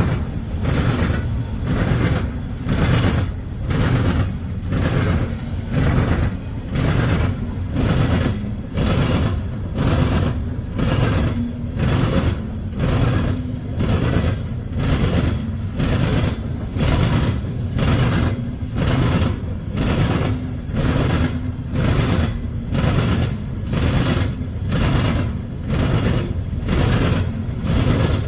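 Loaded coal train rolling past, its wheels clacking over the track in an even rhythm of about one and a half clacks a second over a steady low rumble.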